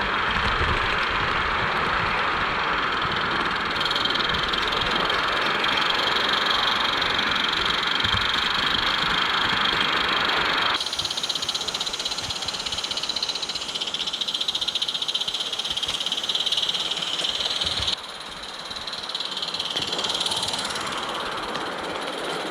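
Roundhouse Katie live-steam garden-railway locomotive running along the track, a steady rattling and clatter of small wheels and train with a hiss on top. The sound changes abruptly about eleven seconds in and again near eighteen seconds, turning thinner and quieter.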